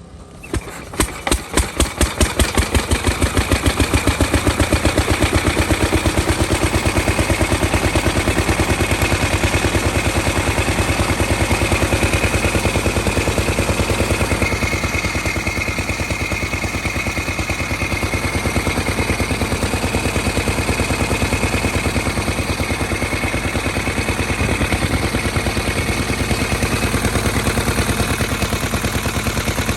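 A 1920s 6 hp Bean spray pump engine starts. It fires about half a second in, its separate firing strokes quicken over the next two seconds, and then it runs at an even, steady beat.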